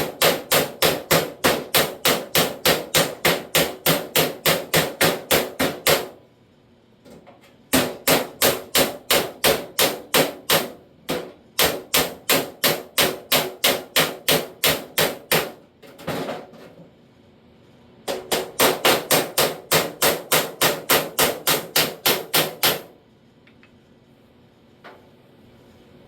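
Steel body hammer with a long chisel end rapidly striking the edge of a sheet-steel door skin, about four ringing blows a second in three long runs with short pauses between. It is knocking the skin's edge down into solid contact with the door's inner panel.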